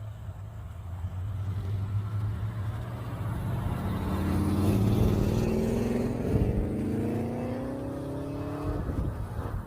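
A car engine accelerating away, its pitch climbing steadily over several seconds, then dropping near the end and starting to climb again.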